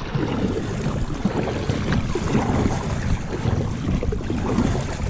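Steady water and wind noise on the microphone of a fishing kayak being paddled across a river.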